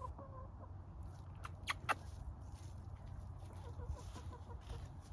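Domestic hens (rescued ex-commercial laying hens) clucking softly, with a few short sharp clicks about one and a half to two seconds in.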